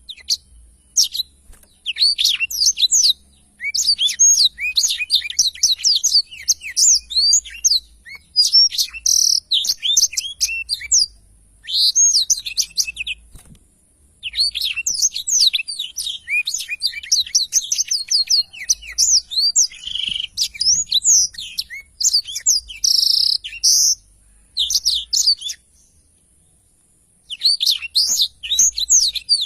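Black-throated canary (blackthroat) singing a long, fast twittering song of quick, high notes. The song comes in phrases broken by short pauses, about halfway through and again near the end.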